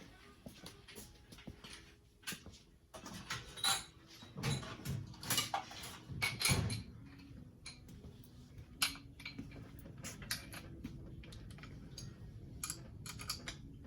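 Scattered metal clinks, clicks and rattles of hand tools and parts being handled, busiest about four to seven seconds in; no grinder is running.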